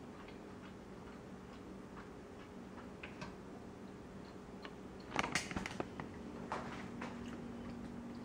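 Faint, irregular ticking mouth sounds of someone chewing a piece of steak. About five seconds in come sharper clinks and scrapes of a steel knife and fork on a wooden cutting board as the steak is cut, with a faint steady hum underneath.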